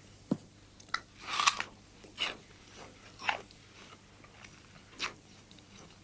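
A person biting and chewing a crunchy piece of fruit close to a clip-on microphone: a handful of short crunches at uneven gaps, the loudest about a second and a half in.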